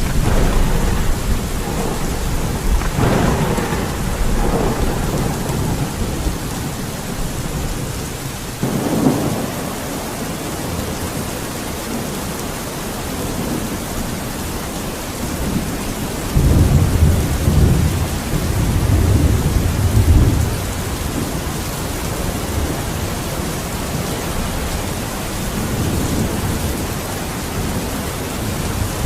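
Steady rain falling, with low thunder rolling through it several times; the longest and strongest roll comes about two-thirds of the way through.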